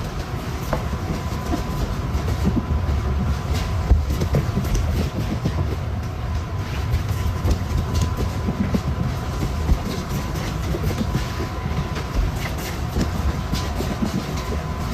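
Steady low rumble of a moving vehicle with many short clicks and knocks over it, and a faint steady high tone.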